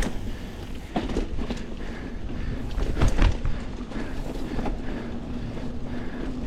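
Mountain bike being ridden over rough dirt singletrack: the bike knocks and rattles irregularly over bumps, with a steady rumble of tyres and wind. The biggest jolt comes about three seconds in.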